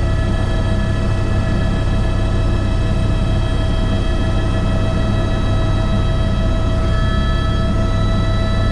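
Airbus H125 helicopter's single turboshaft engine and rotor running steadily: a deep, even rumble with several high whining tones over it. A few more high tones join about seven seconds in.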